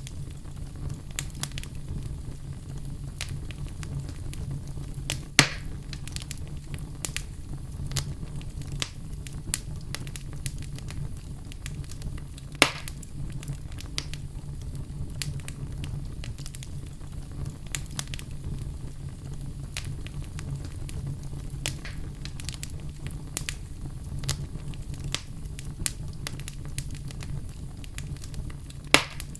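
Fireplace fire crackling steadily over a low rumble, with three louder pops: about five seconds in, about twelve seconds in, and near the end.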